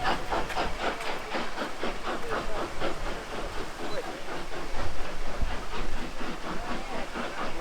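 Steam locomotive working, its exhaust beating quickly and evenly, about four or five chuffs a second, over a steady hiss of steam.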